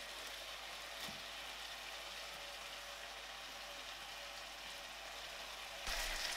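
Pak choi and glazed pork sizzling in a hot non-stick wok, a steady hiss with a light knock about a second in. It gets louder near the end.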